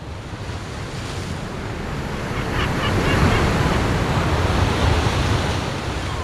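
Sea surf: a wave washing in, swelling to its loudest about halfway through and then easing.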